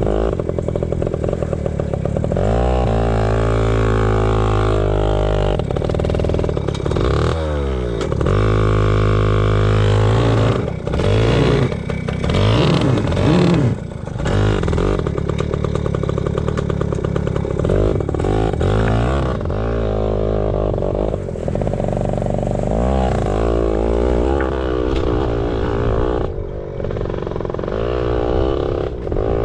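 Yamaha PW80 pit bike's small two-stroke single-cylinder engine running while ridden, its pitch rising and falling as the throttle is opened and closed. A few knocks come through around the middle.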